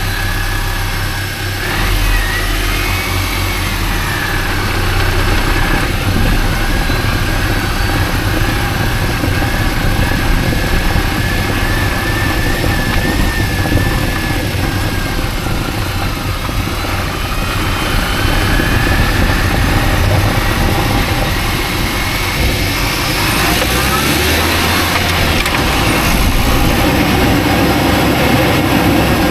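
Mini Cooper S (R52) supercharged 1.6-litre four-cylinder engine running steadily, with a whine that sags and then climbs again about halfway through.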